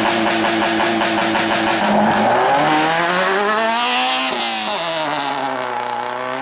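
Rally car engine running, steady at first and then accelerating hard, its pitch rising for about two seconds before dropping sharply at a gear change near the middle, then pulling again.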